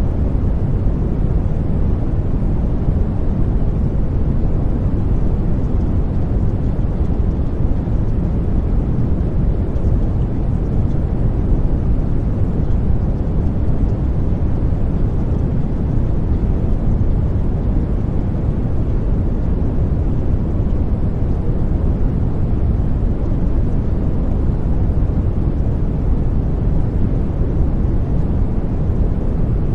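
Steady low rumbling noise, even and unchanging, like brown noise or the drone inside an airliner cabin, used as the masking bed of a subliminal track.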